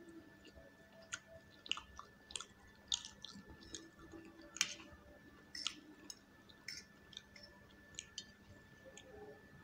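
Close-up wet chewing and slurping of Maggi instant noodles, with irregular sharp little clicks from mouths and forks; the loudest click comes a little under five seconds in. A faint steady hum sits underneath.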